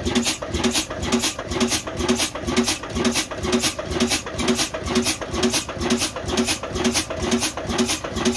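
Old Ruston engine running at a slow, steady speed, a regular beat of about two to three strokes a second.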